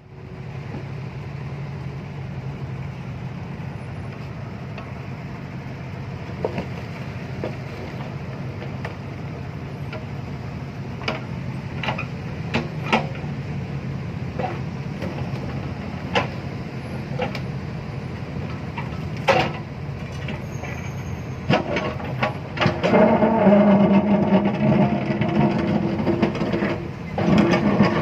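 A large engine running steadily, with scattered sharp clanks. It grows louder and fuller about five seconds from the end.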